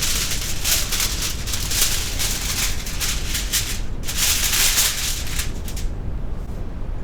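A sheet of aluminium kitchen foil crinkling and rustling as it is handled and spread over as a cover, stopping about six seconds in.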